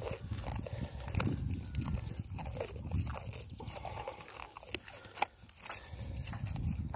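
Plastic stretch film crinkling and crackling in irregular bursts as it is pulled and wound tightly around a fresh graft.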